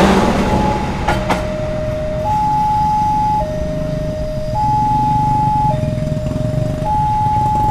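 Electronic two-tone warning alarm sounding a steady high-low pattern, each tone held about a second, over the low rumble of a train. There is a sharp click about a second in.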